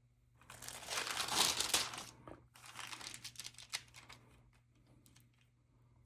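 Stamp album page being turned: a loud crinkling rustle of the page for about a second and a half, then quieter crackles and a few light clicks as the page settles.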